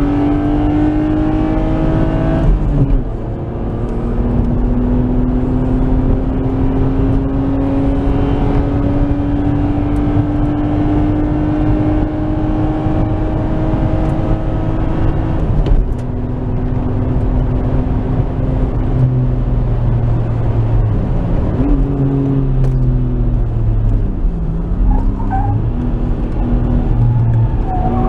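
Nissan Skyline R33's RB20E 2.0-litre SOHC straight-six pulling hard on a race track, heard from inside the car over steady road and wind noise. The revs climb, drop sharply about three seconds in and again around the middle as gears change, then waver and dip with the driver on and off the throttle near the end.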